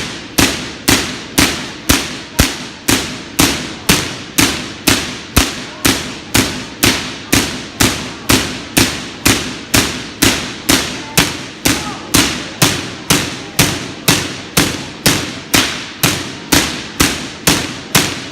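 Million-volt artificial lightning from a giant Van de Graaff generator striking a metal cage: loud, sharp spark cracks in a steady rhythm of a little under two a second, each trailing off in the hall's echo.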